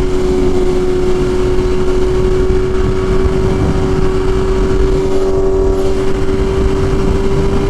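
BMW S1000RR motorcycle running at a steady pace, its engine holding one constant tone over heavy wind and road rumble on the helmet microphone.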